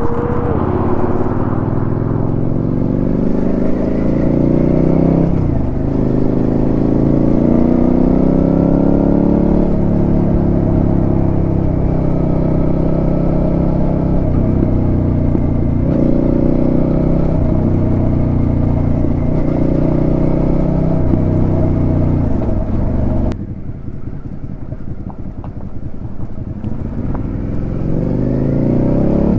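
Suzuki SV650's V-twin engine through a Delkevic aftermarket exhaust while riding on the road. The revs climb and drop back several times as the throttle is worked. About 23 seconds in the throttle closes and the sound drops quieter, then the revs build again near the end.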